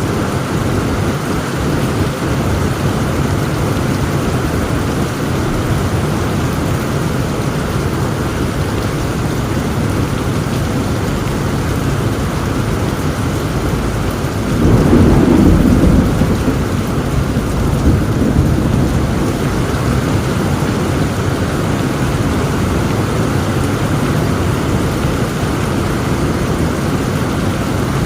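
Heavy rain falling steadily, with a low roll of thunder swelling about halfway through and a smaller rumble a few seconds after.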